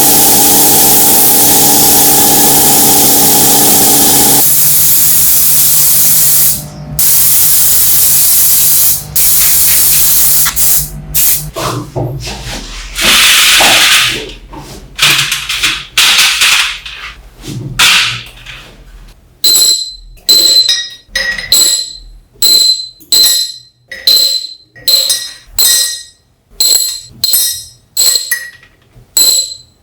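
Compressed air hissing from an air-driven spray or blast gun: a long continuous blast with a few short breaks, then short blasts about once a second in the last third, each with a thin whistle.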